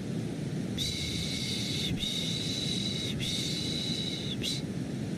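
Baby-soothing shushing, 'shhh' strokes about a second long repeated three times in a row with a short fourth, over a steady bed of low white noise.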